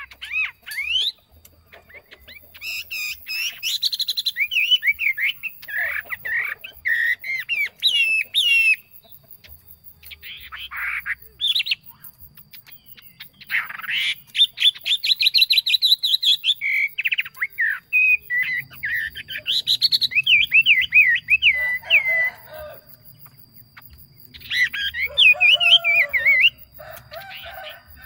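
A songbird singing in repeated fast warbling, trilling phrases with short pauses between them.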